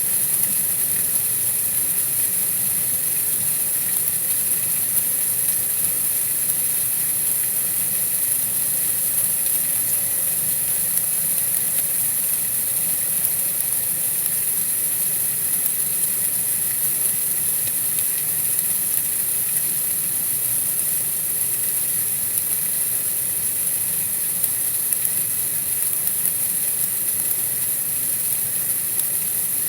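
Steady outdoor night ambience: an even hiss, strongest very high in pitch, over a faint low hum, with no change or distinct events.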